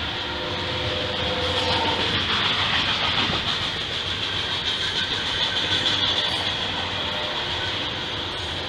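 Double-stack intermodal freight train of container well cars rolling past steadily on the rails.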